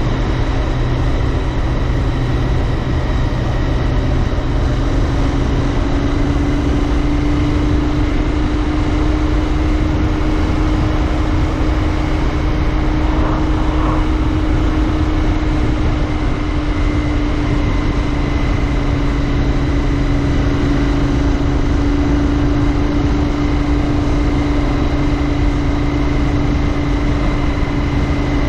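Royal Enfield Interceptor 650's parallel-twin engine and exhaust running at a steady cruise, its note rising slightly about six seconds in and then holding steady.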